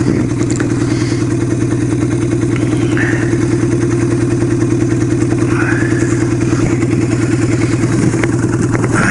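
1975 Kawasaki KZ400's parallel-twin engine running at a steady speed with a fast, even pulse.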